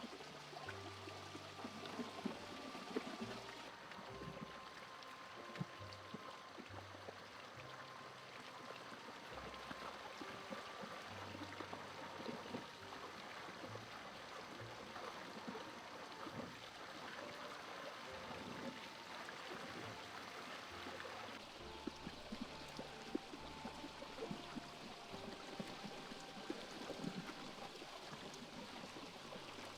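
Running water rushing steadily under soft background music with held low notes.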